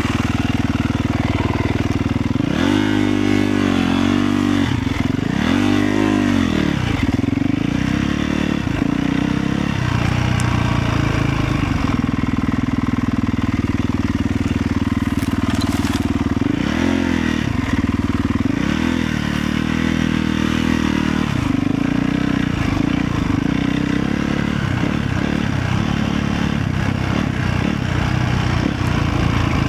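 Motorcycle engine running steadily, its revs rising and falling twice a few seconds in and twice more a little after the middle.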